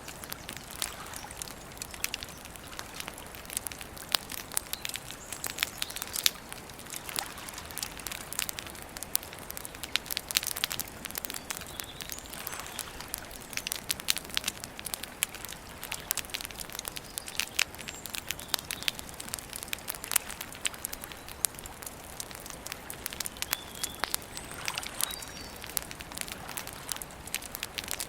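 Campfire wood crackling, with frequent irregular sharp pops and snaps over a faint steady hiss. A few brief high bird chirps come in around the middle and near the end.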